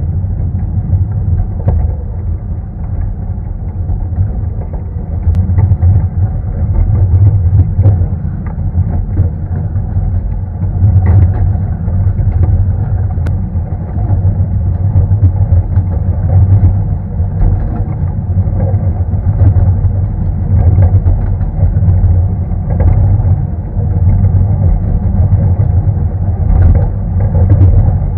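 Steady low rumble of a 750 mm narrow-gauge train rolling along the track, heard from an open passenger carriage, with scattered small rattling clicks.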